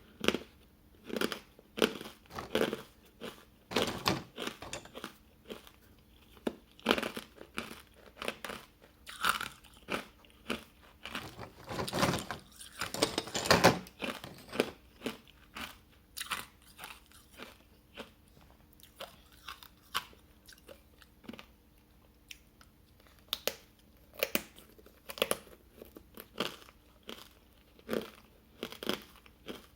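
Hard ice cubes coated in matcha powder being bitten and chewed close to the microphone: sharp, irregular crunches, with a run of longer, louder crunching about halfway through and sparser bites after.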